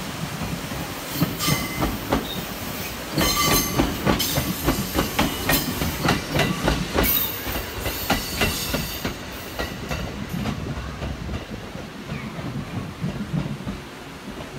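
ET127 series electric train passing over points, its wheels clacking over rail joints and turnouts with a few short high squeals. The clacking is densest and loudest in the middle, then thins out as the train moves away.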